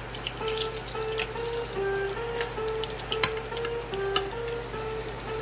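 Food sizzling and crackling as it fries in a pan, under background music with a melody of short stepping notes.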